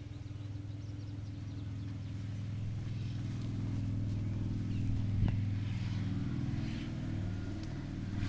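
An engine running steadily at idle, its low hum slowly growing louder, with a single sharp knock about five seconds in.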